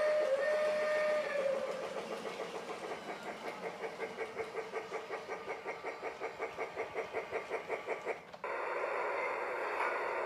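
Battery-operated Lionel Polar Express Ready to Play toy locomotive sounding its whistle for about a second and a half, then running with an even chugging rhythm of about five beats a second. Near the end the sound switches abruptly to a steady hiss.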